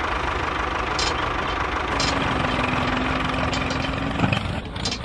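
Tractor engine running steadily at idle, with a few light clicks.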